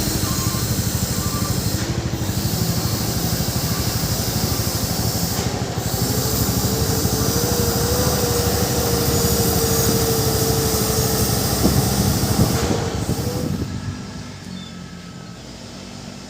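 A heavily loaded truck passing close with its diesel engine running hard, loud and steady with a hiss. The sound drops away suddenly about fourteen seconds in as the truck moves off.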